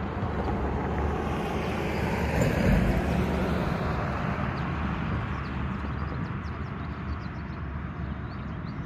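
Small birds chirping in short, high calls through the second half, over a steady low rumble that swells briefly a few seconds in.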